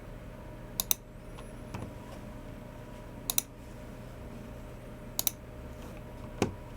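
Sparse clicking from a Logitech MX Keys Mini keyboard and G304 mouse: three sharp double clicks roughly two seconds apart, then a single duller knock near the end.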